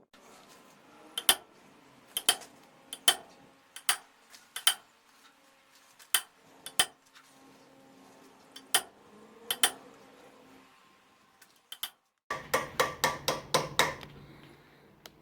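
Hammer blows ringing on steel at an anvil during forging, spaced about a second apart, some with a smaller tap just before. Near the end comes a quick run of about seven blows in under two seconds.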